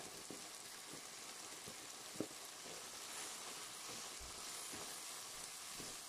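Faint steady sizzle of chicken mince, onions and freshly added tinda pulp frying in a nonstick pan. A wooden spatula stirs it, making a few light taps against the pan, the loudest about two seconds in.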